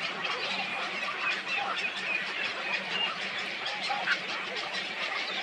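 A dense chorus of many birds calling at once, short overlapping calls and chirps, over a faint steady low hum.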